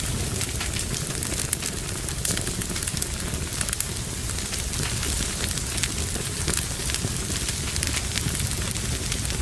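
Fire burning in a fireplace, crackling steadily with many small pops over a low rumble of flames.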